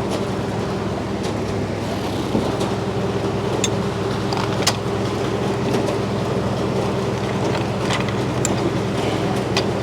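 Frick sawmill running at a steady pitch, with scattered sharp clicks and knocks over the drone.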